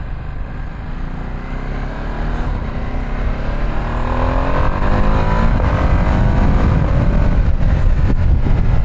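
Ducati Streetfighter V2S's 799cc L-twin engine accelerating, its pitch rising steadily for a few seconds, with wind rushing over the microphone getting louder as the speed builds.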